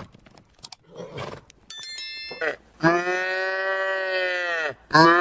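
Cow mooing: one long, level call of nearly two seconds, then a second call starting near the end. Before it, a brief high ding.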